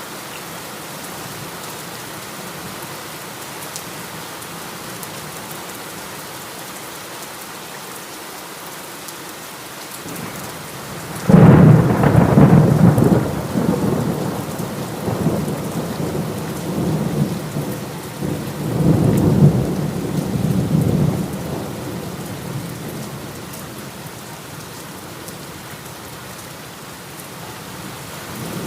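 Steady heavy rain, then about eleven seconds in a sudden loud thunderclap that rolls on in several waves of rumbling for about ten seconds before dying back into the rain.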